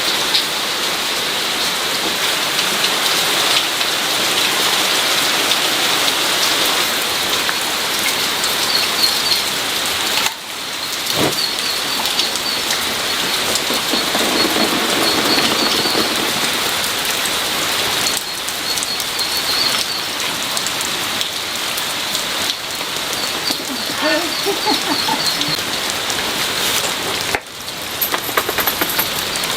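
Steady rain falling on a surface, with small birds chirping in short repeated bursts through it.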